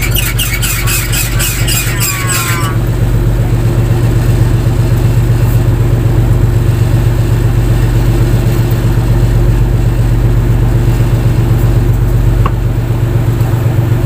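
Fishing boat's engine running at a steady, even drone. For the first two to three seconds a rapid high squealing chatter sounds over it, falling in pitch before it stops.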